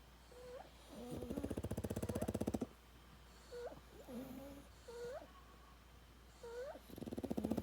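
A sleeping pug snoring loudly: a long, rattling snore about a second in that grows louder for about a second and a half, then another starting near the end. This is the heavy snore typical of the breed's short, flat-faced airway. Short rising squeaks come between the snores.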